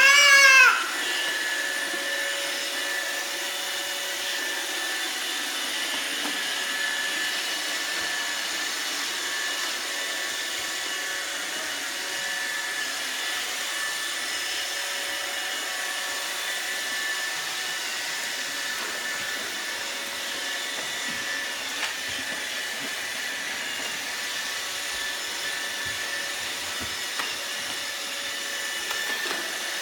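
Roomba robot vacuum running: a steady motor whir with a few constant high tones. Right at the start there is a brief, loud, high-pitched sound whose pitch bends up and down.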